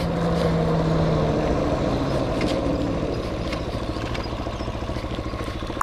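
Hawk 250 motorcycle's single-cylinder engine running at low speed, its firing pulses steady and even, with a steady tone that fades out about a second and a half in.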